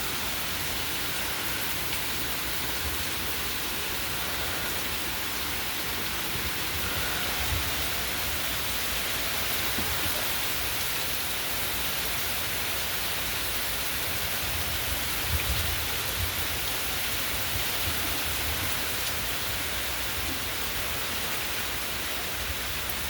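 Steady heavy rain from a hurricane pouring down, an even hiss, with a few low gusts of wind rumbling on the microphone.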